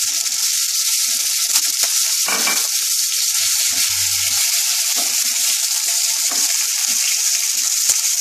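Chopped tomatoes sizzling steadily in hot oil in a non-stick kadai. A wooden spatula stirs them now and then, with scattered light knocks and a short scrape against the pan.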